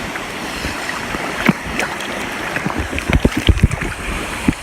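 Steady rush of water at a waterfall pool, with a quick run of splashes and knocks about three seconds in as people move through the water.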